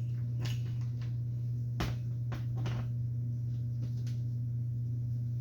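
A few light clicks and taps of small metal screws being handled and started into the chop saw's housing, over a steady low hum.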